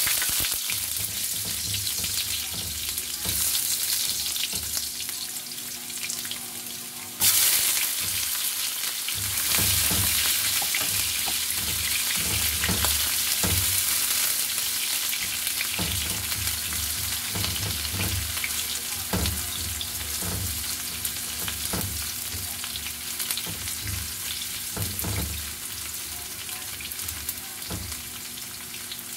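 Garlic, onion and ginger sizzling in hot oil in a nonstick wok, with a steady frying hiss that jumps louder about seven seconds in as more goes into the pan. From about nine seconds on, a silicone spatula stirring the pan adds soft knocks and scrapes.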